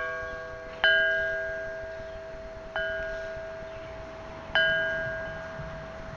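A metal chime struck three times, each stroke ringing out on the same clear pitch and fading slowly before the next.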